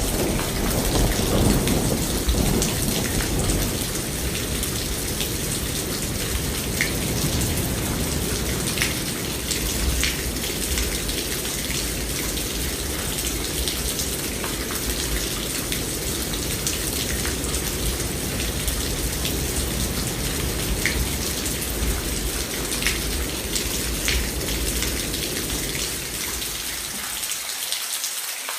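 Steady rain falling, with the tail of a thunder rumble fading away over the first few seconds. A softer low rumble stays under the rain and drops out near the end, leaving only the rain.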